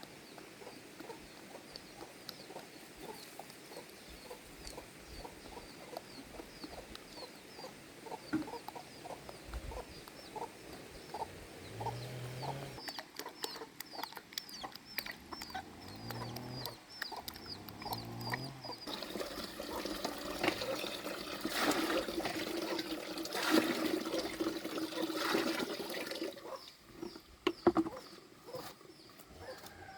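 Chickens clucking, with short high peeping calls repeating several times a second. About halfway through, a louder, noisier stretch with clicks comes in for several seconds.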